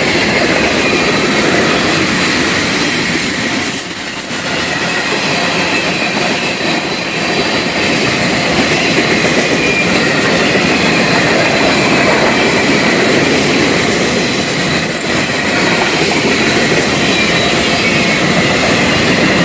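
Florida East Coast Railway freight cars rolling past at close range: steady, loud noise of steel wheels running over the rails, dipping briefly about four seconds in.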